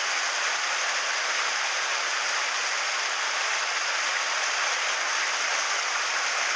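Mountain stream running steadily, a constant even hiss of rushing water.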